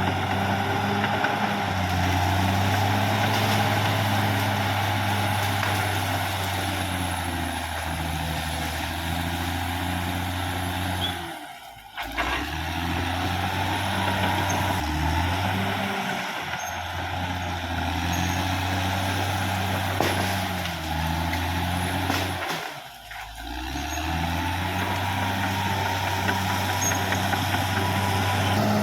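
Caterpillar D6R XL bulldozer's diesel engine running steadily, its sound dropping away briefly twice, about 12 and 23 seconds in.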